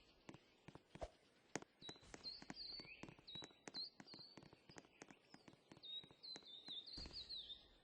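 Faint bird chirping: a long run of short, high chirps from about two seconds in until near the end, with scattered light clicks throughout.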